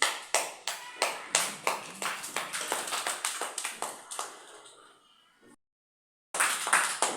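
A group clapping in time, about three claps a second, fading away. After a moment of dead silence the clapping starts again near the end.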